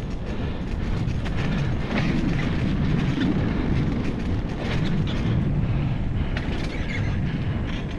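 Bicycle rolling downhill over a rough forest trail: a steady rumble with scattered knocks and rattles as the bike goes over bumps and roots, and wind buffeting the microphone.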